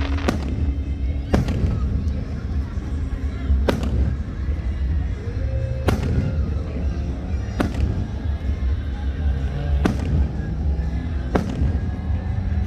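Fireworks going off, about seven sharp bangs at uneven gaps of one to two seconds, over a steady low rumble.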